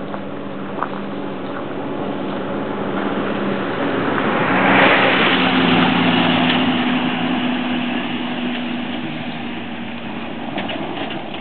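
A motor vehicle engine running steadily, with a rush of noise that builds to its loudest about five seconds in and then fades, as a vehicle passes close by.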